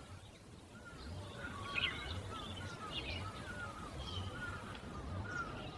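Bird chirping in many short, repeated calls, starting about a second in, over a faint low hum.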